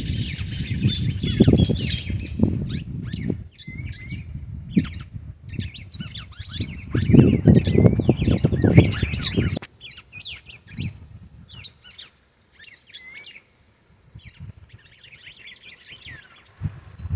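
Small birds chirping and singing in many short, quick calls all through. Over the first half a low buffeting rumble on the microphone is the loudest sound; it cuts off about halfway through, leaving the chirps alone and fainter.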